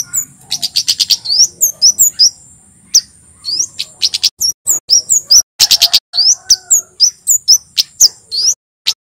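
Male Javan kemade singing loudly: a fast, unbroken run of sharp, high chirps and sweeping notes, several a second, over a thin steady high tone.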